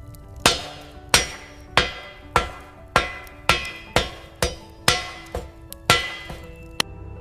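About a dozen sharp knocks at a steady pace of nearly two a second, each ringing briefly, over background music.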